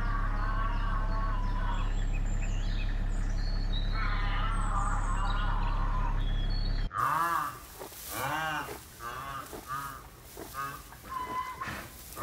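Birds chirping and warbling over a steady low hum. About seven seconds in this cuts off abruptly, and a series of repeated honking animal calls follows.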